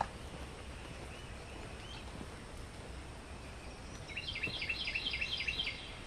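A bird gives a quick run of bright, repeated chirps, about four or five a second for nearly two seconds near the end, over a steady outdoor background noise. Fainter single calls come earlier, and there is a brief click right at the start.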